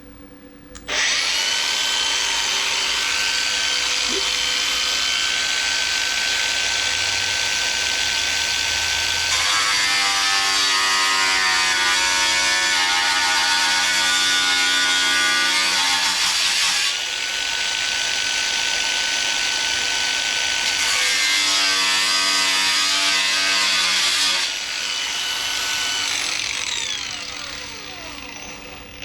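Power cut-off wheel spinning up about a second in with a steady high whine, then cutting into the sheet-steel fender twice, the sound turning lower and rougher under load. This is a relief cut to relax the panel so the patch lies flush. Near the end the wheel winds down, its pitch falling.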